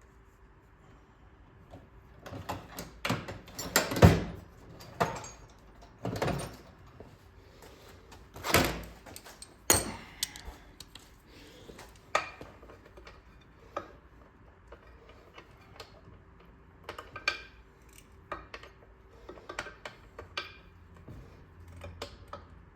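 Irregular metal knocks, clicks and scrapes of hand tools working on small-engine parts during a teardown, with the loudest knock about four seconds in.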